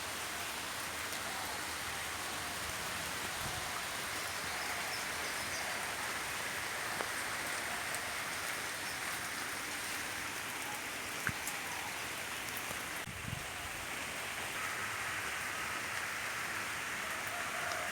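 Steady rain falling, with an occasional single louder drip.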